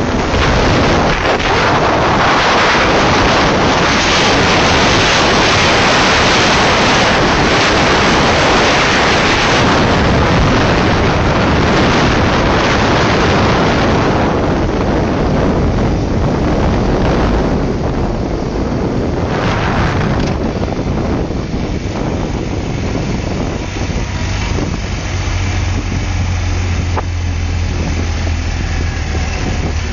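Wind rushing over the microphone while riding in a BMW motorcycle sidecar outfit, with the bike's engine running underneath. About halfway through the rush dies down as the outfit slows, and a steady low engine hum comes through near the end.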